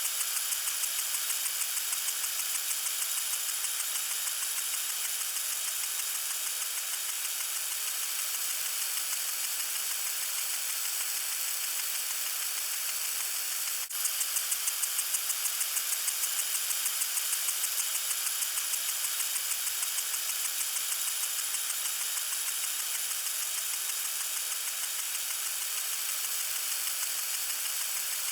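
Water sprinkler spraying: a steady high hiss with a fast, even flutter, briefly cut off about halfway through.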